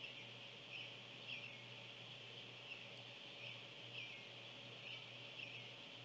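A bird giving short chirping call notes, roughly one a second, over a steady high insect drone.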